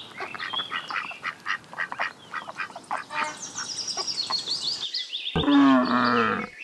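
Ducks quacking: many short, rapid quacks, with a run of higher calls falling in pitch about three to four and a half seconds in. After a break at about five seconds a louder, longer call fills the last second or so.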